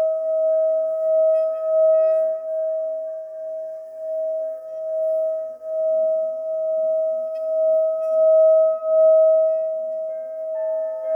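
Singing bowl sounding one sustained ringing note that swells and fades in slow waves. A second, higher note joins near the end.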